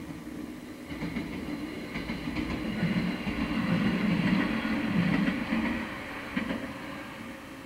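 A train passing by, its wheels clattering over the rails; the sound swells to a peak in the middle and fades away toward the end.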